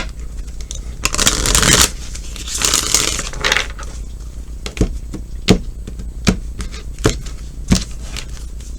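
Tarot deck being shuffled, two rustling bursts of cards, then a run of sharp taps about every 0.7 s as cards are handled.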